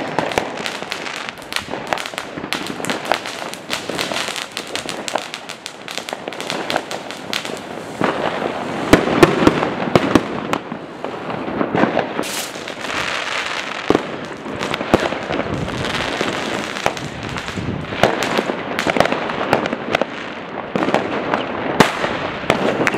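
Non-stop New Year's fireworks and firecrackers: a dense run of overlapping bangs and crackling, with no gap between blasts. They are busiest about nine to eleven seconds in.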